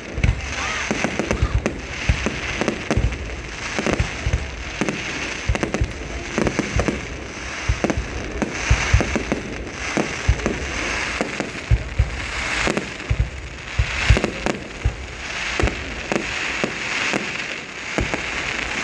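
Aerial fireworks display: frequent, irregular bangs of shells bursting, over continuous crackling.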